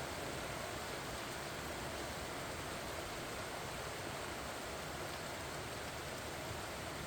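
Steady rain falling on pumpkin vine leaves, an even hiss with no separate drops standing out.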